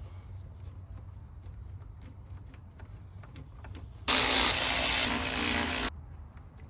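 A cordless power tool runs in one steady burst of about two seconds, starting about four seconds in, driving in a radiator mounting bolt. Before it there are faint clicks and rubbing from handling.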